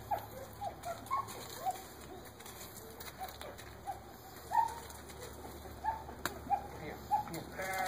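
Small birds chirping: short, faint, high chirps scattered irregularly, about two a second.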